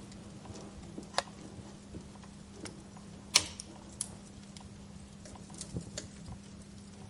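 Wood fire crackling in a fireplace: irregular pops and snaps over a soft hiss, the loudest pop a little past the middle, with a faint steady hum underneath.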